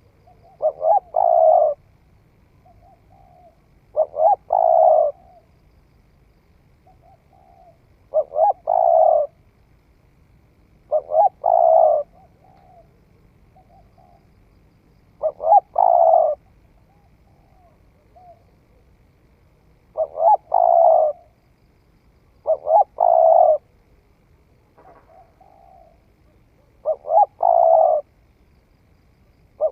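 Spotted dove cooing: a phrase of two or three deep coos, about a second long, repeated every three to four seconds, with soft short notes between the phrases.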